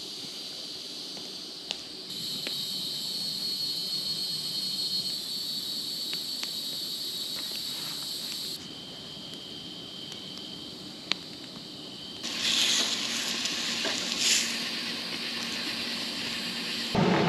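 Steady, high-pitched drone of a cicada chorus, with a few sharp crackles. About twelve seconds in, a louder hiss joins.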